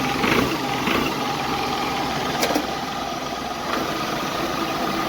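A vehicle engine idling steadily, with a pair of sharp clicks about two and a half seconds in.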